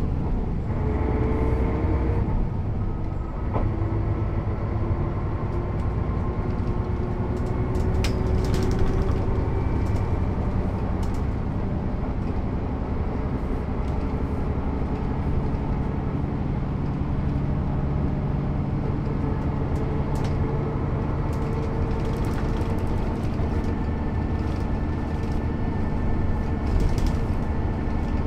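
Mercedes-Benz O 407 city bus with a manual gearbox running under way. Its engine note rises over the first few seconds as it accelerates, then holds steady while cruising. Scattered light rattles and clicks are heard over the engine.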